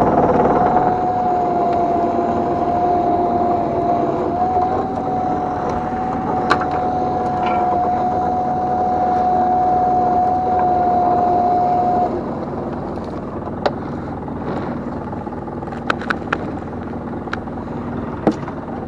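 Machinery aboard a small fishing boat hauling a gill net, running with a steady whine over the hum of the engine. The whine steps up slightly about a third of the way in and stops about two-thirds through, leaving the engine hum and a few sharp knocks.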